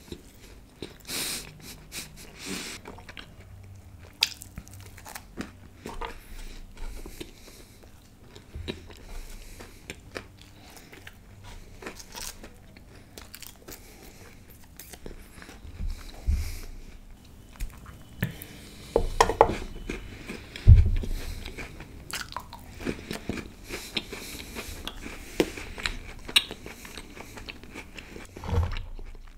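Close-miked eating: a flaky puff-pastry patty being chewed, with wet mouth sounds and irregular crisp crunches. A few louder bites come about two-thirds of the way through.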